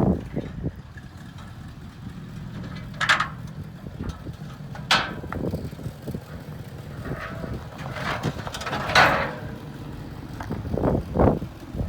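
A motor vehicle running with a steady low hum, broken by several sudden rattles and clanks, the loudest about nine seconds in and a cluster near the end.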